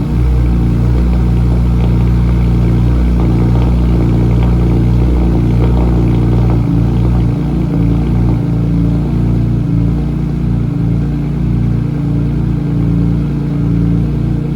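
BMW E46 M3's S54 straight-six idling steadily after a cold start, at raised cold-start idle; the sound eases slightly in level about halfway through.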